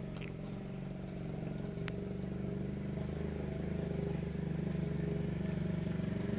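An engine running steadily, slowly getting louder, with faint short high chirps repeating every half second or so.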